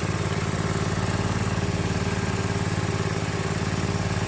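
An engine idling steadily: an even low drone with a fast regular pulse that does not change.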